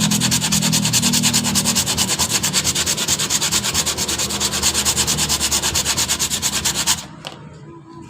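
Sandpaper rubbed rapidly back and forth over a cured fiberglass-and-resin ding repair on a surfboard, flattening the patch, in fast, even strokes. It stops about seven seconds in.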